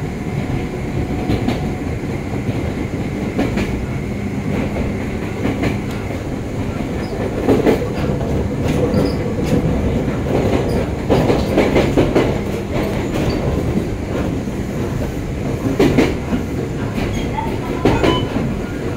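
Electric train of the Joshin Electric Railway running along the line: a steady rolling rumble with a low hum, broken by several bursts of wheels clicking over rail joints.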